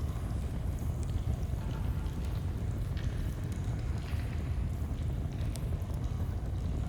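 Flowing stream running as a steady low rush, with scattered small crackles and pops of a campfire over it.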